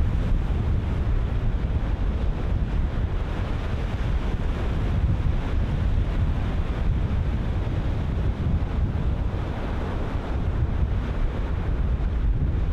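Ocean surf breaking in a steady, continuous wash, with wind buffeting the microphone as a low rumble.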